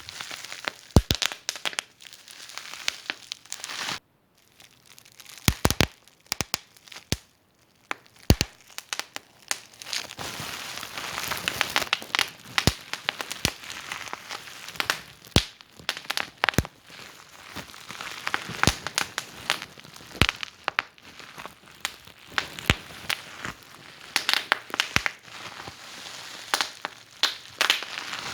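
Wood fire burning in a fireplace, crackling with sharp, irregular pops and snaps over a soft hiss. The fire goes almost silent for a moment about four seconds in, then picks up again.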